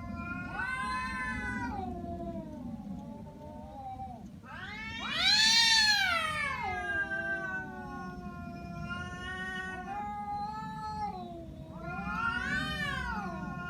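Domestic cat yowling in an angry threat: long, drawn-out wails that rise and fall slowly in pitch. The loudest yowl swells about five seconds in.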